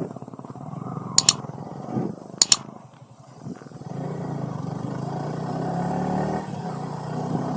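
Motorcycle engine running under way, getting louder and rising in pitch from about four seconds in as it accelerates. Two short, sharp double sounds cut in about a second and a quarter apart, early in the stretch.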